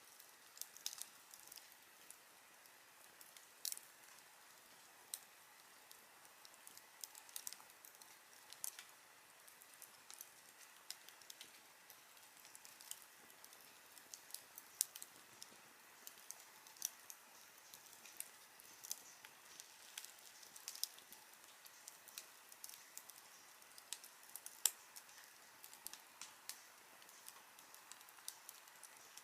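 Campfire crackling: irregular sharp pops and snaps from burning wood, several a second, over a soft hiss.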